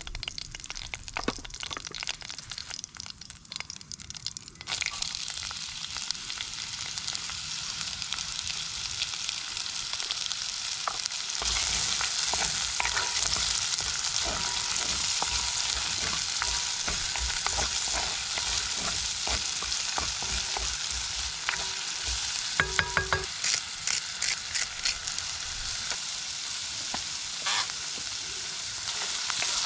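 Food sizzling as it fries in a hot pan, with a cooking utensil stirring and scraping through it. The sizzle starts about five seconds in and grows louder about halfway through.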